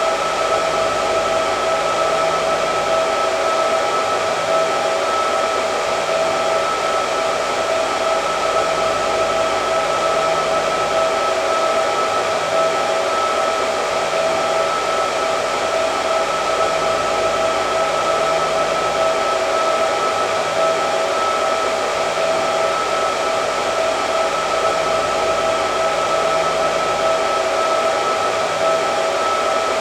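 Hair dryer running steadily: a constant rush of blown air with an even whine from its motor and fan.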